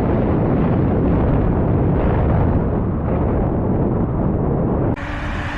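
Heavy wind buffeting the microphone of a camera on a moving bicycle, a loud, constant low rumble. It drops abruptly near the end to a lighter rush of air.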